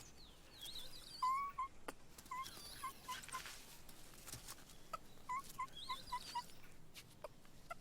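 Snub-nosed monkey giving short squeaking calls in quick bouts of four to six, a second or so apart between bouts, with a few scattered clicks.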